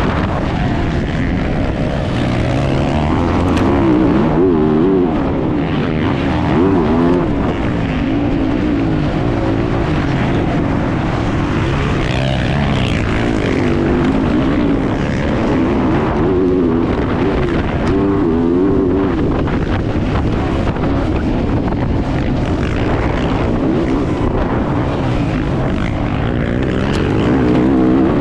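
Motocross bike engine racing at full load, revving up and falling back over and over as the rider works the throttle and gears around the track.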